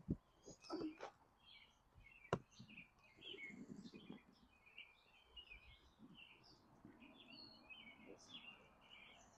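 Faint birds chirping and calling in the background, with two sharp clicks (one at the very start, one about two seconds in) and a soft low rustle a few seconds in.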